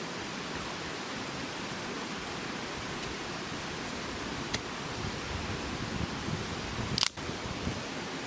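Steady rushing of flowing stream water. A light click comes about halfway through, and a sharper knock comes near the end.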